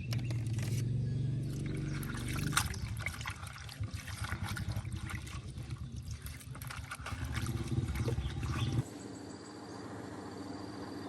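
A small engine running with a lumpy, uneven beat, rising twice, then cutting off abruptly about nine seconds in.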